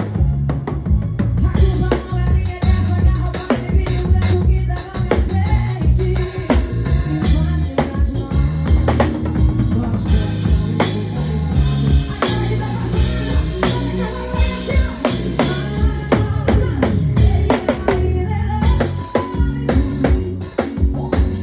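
Live band playing an instrumental passage: a drum kit driving a steady beat with bass drum, snare and rimshots, over a bass line and keyboard.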